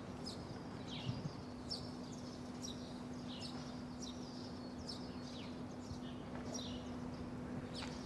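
Small birds chirping: short high chirps that fall in pitch, coming irregularly about once or twice a second, over a faint steady hum.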